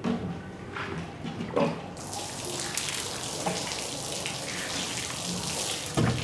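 A few knocks and clatters, then water starts running with a steady hiss about two seconds in; a thump near the end.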